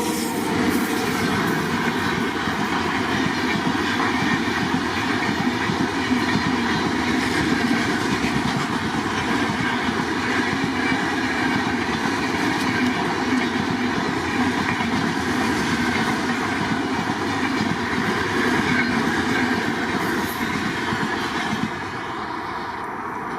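A train running on the rails: a steady rumble and clatter of wheels on the track, dropping a little in loudness near the end.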